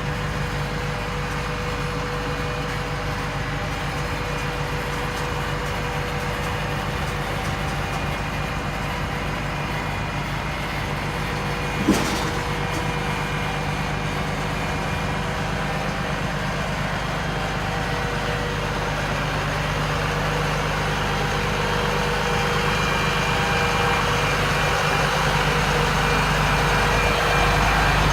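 Catering truck's engine running steadily, with a single sharp knock about halfway through, then growing gradually louder toward the end.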